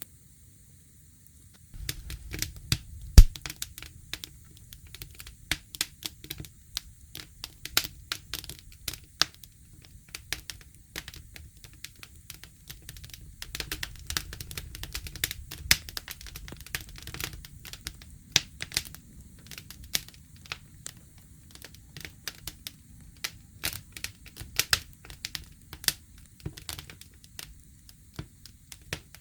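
Campfire wood burning: irregular crackles and pops over a low rumble of flame, starting about two seconds in, with one sharp loud pop about a second later.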